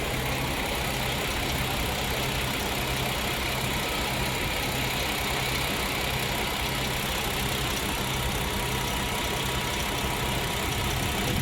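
Heavy diesel truck engine idling steadily, a low even drone.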